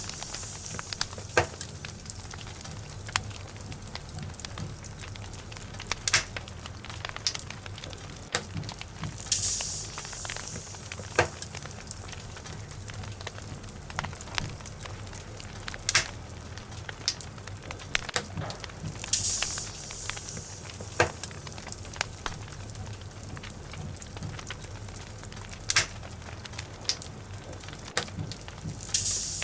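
Wood logs burning in a fireplace, crackling with irregular sharp pops over a steady low rumble of flame. Short hissing spells come about every ten seconds.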